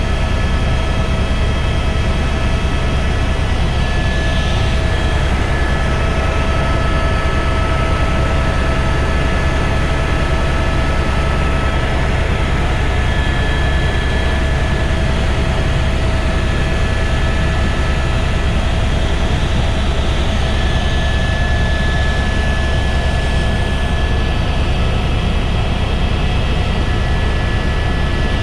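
Helicopter in flight: a constant low drone with a steady whine laid over it, unchanging throughout.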